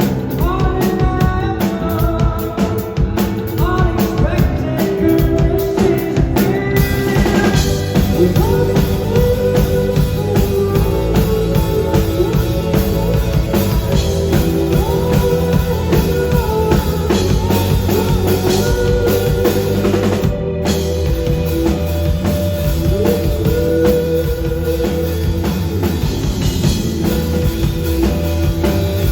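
Live rock band playing: a drum kit keeps a steady beat under a sung melody with instruments.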